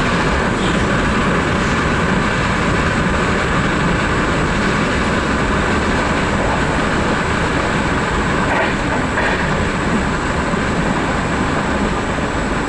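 Vivalto double-deck regional train running, heard from on board: a steady rumble and rail noise with no letup.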